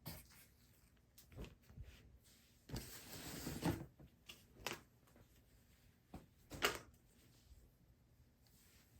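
Scattered handling noises: several short knocks and clicks, with a longer rustle about three seconds in.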